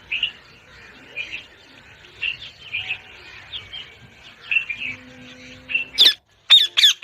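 Parrot chirping in short, repeated calls, then three or four loud, sharp screeches near the end.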